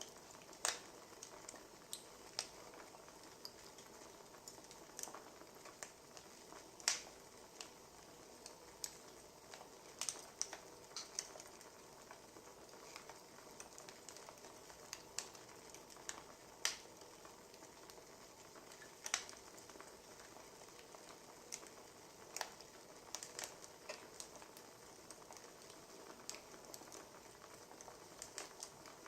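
Burning firewood crackling: irregular sharp pops and snaps over a soft, steady hiss.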